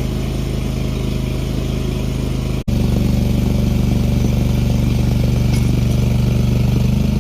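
Towable backhoe's small engine running steadily. A brief dropout a little under three seconds in, after which it runs on slightly louder.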